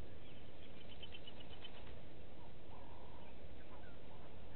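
Wild birds calling: a quick run of short, high chirping notes, then a brief steady whistle and a few faint chirps, over a steady low background hiss.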